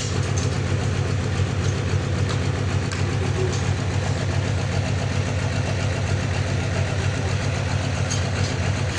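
Sawmill machinery running steadily, a low, even engine-like hum with a fine regular pulse.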